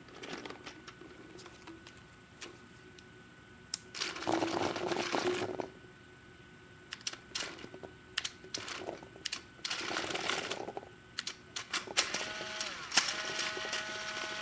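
Reball rattling and clicking through a Dye Rotor paintball loader in a test run, with two longer rattling stretches and scattered sharp clicks. It ends in a steady whine.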